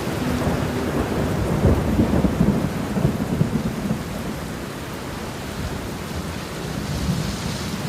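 Rolling thunder rumbling over steady heavy rain. The rumble is loudest in the first half and fades away after about four seconds, leaving the rain hiss.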